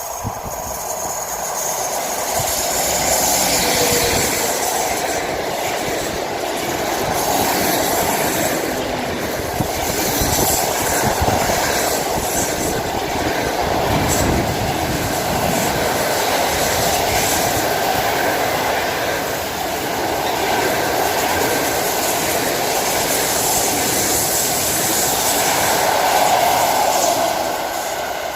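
A train passing close by on the rails: a continuous, loud rolling noise of wheels on track that swells and eases a few times as the cars go past.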